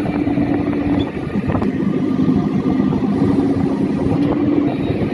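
A motor vehicle engine running with a steady hum that shifts slightly in pitch, over a rough low rumble.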